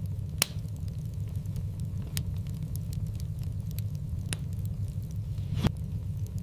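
Wood fire in a fireplace crackling over a steady low rumble, with scattered sharp pops; the two loudest come about half a second in and near the end.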